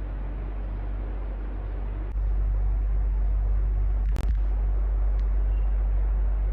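Electric fan running steadily, a whooshing air noise over a low hum; about two seconds in the hum grows louder and stays up. A sharp click sounds a little after four seconds, with a fainter tick about a second later.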